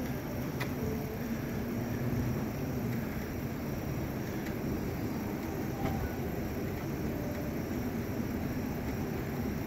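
Vehicle engine idling, a steady low hum, with a couple of faint clicks.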